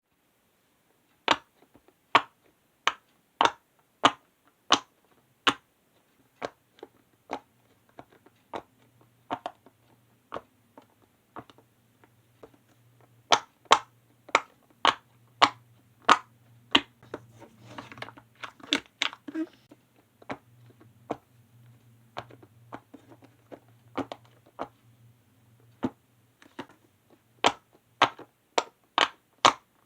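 Silicone pop-it fidget toy being pressed bubble by bubble: a steady run of sharp pops, about one to two a second, some loud and some soft, with a quicker flurry of softer pops about two-thirds of the way through.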